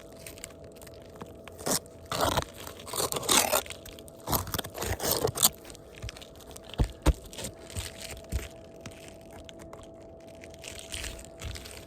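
Gritty crunching and scraping of asphalt shingles being worked by hand while roof patch is spread under them, in several bursts over a few seconds, followed by a couple of dull knocks.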